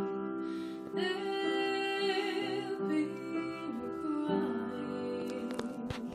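A woman singing with piano accompaniment, holding long notes.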